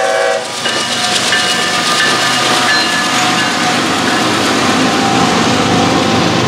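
A Norfolk Southern GE ES44AC locomotive's horn cuts off about half a second in, then the lead unit and a trailing locomotive pass close by, their GEVO V12 diesel engines running loud under the rush of steel wheels on rail. Double-stacked container cars follow, rolling past with a steady rumble.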